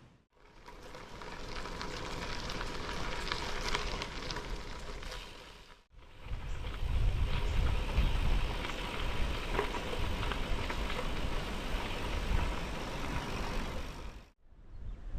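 Strong wind buffeting the microphone, a rough rushing noise with a heavy low rumble, broken by two abrupt cuts: one about six seconds in and one near the end.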